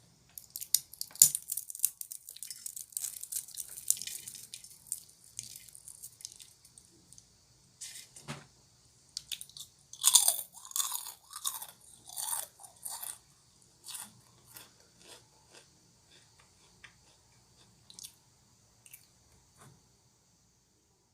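Close-up chewing and crunching of Kkobuk Chip, a crisp layered corn snack. A dense run of crackly crunches fills the first six seconds, a louder cluster of crunches comes around ten to thirteen seconds in, and then the chews grow sparser and stop near the end.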